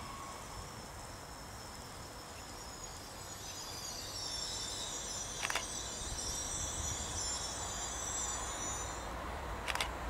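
Bombardier AGC electric multiple unit coasting slowly into a station, its low running rumble growing as it nears, with a high-pitched wavering squeal of the brakes and wheels from about three seconds in to near the end, and a couple of sharp clicks.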